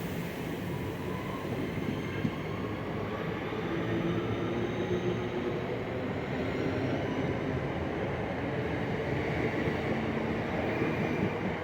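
Two coupled Class 323 electric multiple units pulling away, the traction motors whining in several steady tones that slowly rise in pitch over the rumble of the train.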